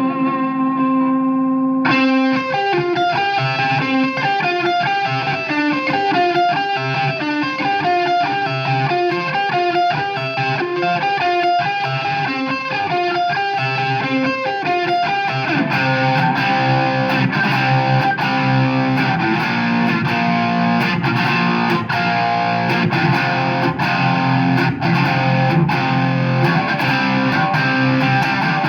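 Electric guitar through a Marshall AFD100 amp head set for a distorted crunch tone. A held note gives way about two seconds in to a fast, repeating single-note picked figure, and about halfway through it changes to heavier, fuller riffing with more low end.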